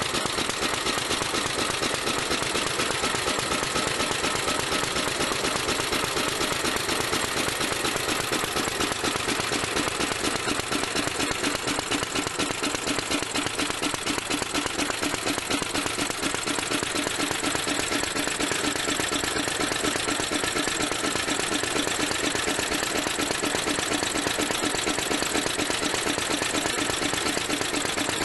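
Petter A1 single-cylinder petrol stationary engine running steadily at an even speed, with a fast regular firing beat.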